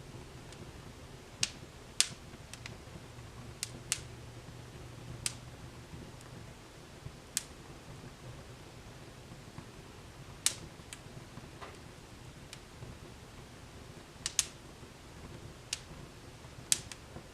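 Wood fire burning in a fireplace, with sharp irregular crackles and pops over a soft steady hiss.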